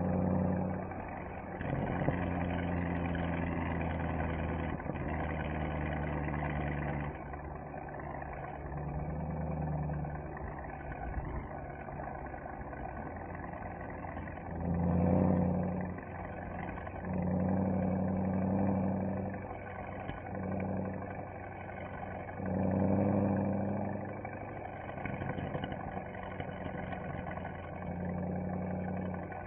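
Mercedes-AMG SL63's V8 engine and exhaust while driving, running steadily and then swelling louder several times under bursts of throttle from about halfway through.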